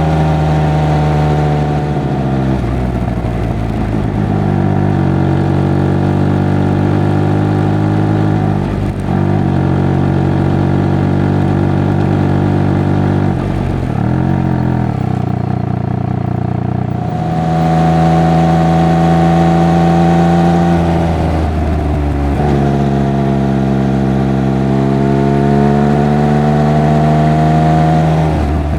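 Triumph Speed Triple 1200 RR's inline three-cylinder engine and exhaust under way, the note rising and falling as the bike accelerates and slows through the gears, with short breaks in the note at gear changes about 9 and 14 seconds in, and a louder pull a little past halfway.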